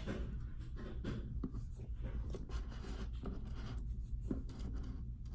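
Scratchy rubbing with light taps over a steady low hum.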